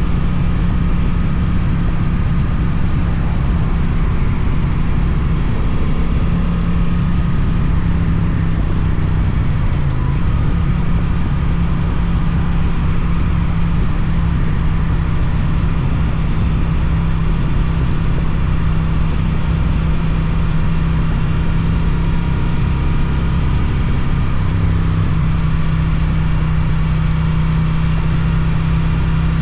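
Suzuki GSX-8TT motorcycle's twin-cylinder engine through an Akrapovič exhaust, running at steady, nearly constant revs under way, with a slight dip in pitch about ten seconds in.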